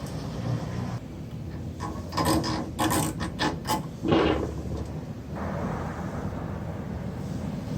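A quick run of sharp mechanical clicks and rattles, thickest between about two and four seconds in, over a steady low background noise.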